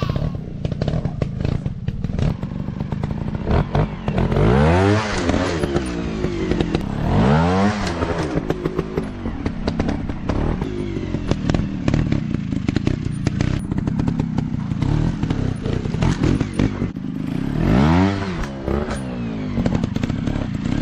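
Dirt bike engines running, revved up and back down three times: about four, seven and eighteen seconds in. Clattering noises run through it.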